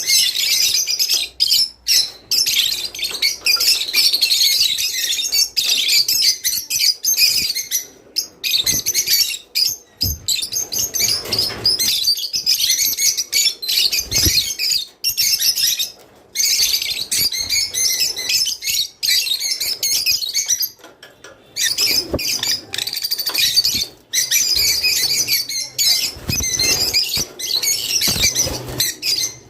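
A flock of rosy-faced lovebirds chirping in dense, continuous high-pitched chatter, with a brief lull about two-thirds of the way through.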